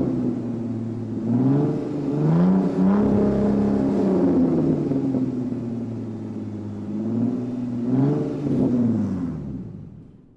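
Supercar engine revving. The pitch climbs in quick blips a little over a second in and again near the end, holds a steady, falling note between them, then fades away.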